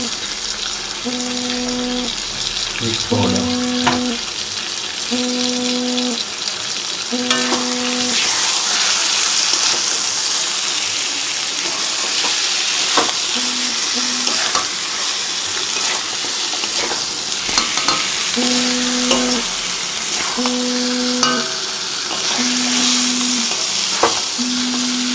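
Boiled mutton being stir-fried in a thick masala in a metal pan: steady sizzling, with the spatula scraping and clicking against the pan. A low tone sounds in short spurts every second or two through much of it.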